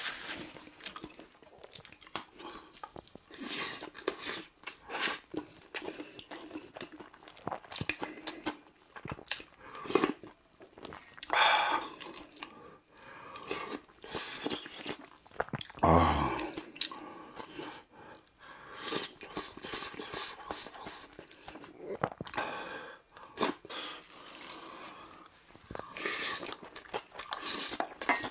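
Close-miked chewing and crunching of mouthfuls of bibimbap mixed with crunchy raw radish salad (musaengchae), with short clicks of a wooden spoon in a brass bowl. A louder thump comes about sixteen seconds in.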